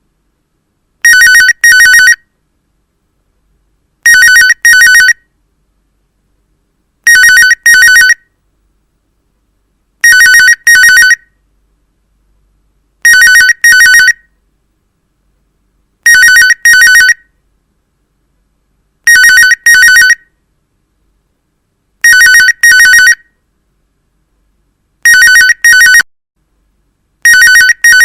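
Telephone ringing in a double-ring pattern: two short trilling rings, repeated about every three seconds.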